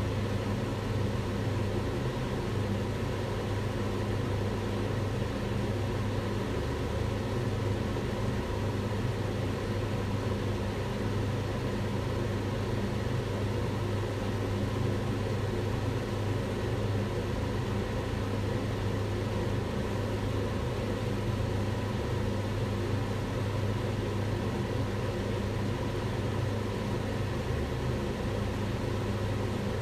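Kitchen range hood fan running steadily, a constant whooshing hum with a strong low drone, used as white noise.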